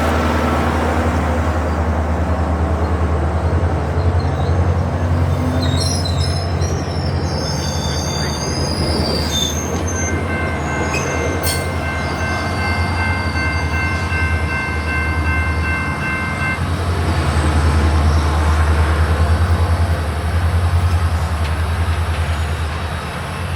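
Diesel passenger train rumbling past the platform. Its wheels squeal in high tones about six to ten seconds in, followed by a steady high-pitched tone held for about six seconds.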